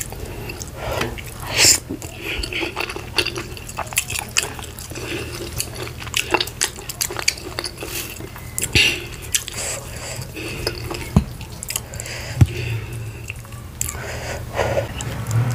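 Close-miked eating sounds: wet chewing and lip smacks, many short irregular clicks, as mouthfuls of garri fufu and vegetable soup are eaten by hand. Fingers squish and pinch the soft fufu, about halfway through.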